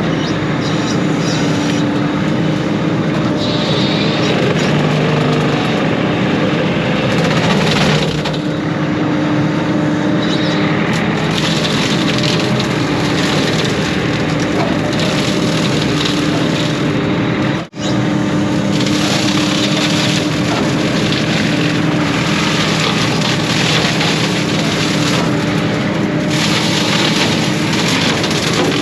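Excavator diesel engine running steadily under load while its hydraulic brush cutter chews through brush, with crackling of wood. The sound breaks off for an instant about two-thirds of the way through.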